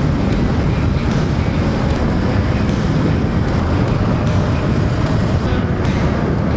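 Hero Xpulse 200 4V motorcycle under way: a steady rush of wind and road noise over the rider's microphone, with the engine underneath.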